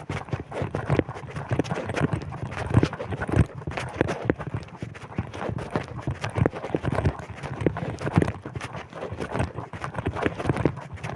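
Wind buffeting the microphone while someone walks, a continuous low rumble with dense, irregular crackles and thumps.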